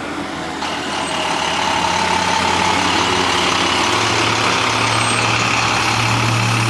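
Bus engine running, growing louder over the first two seconds, its low hum stepping up in pitch about four seconds in.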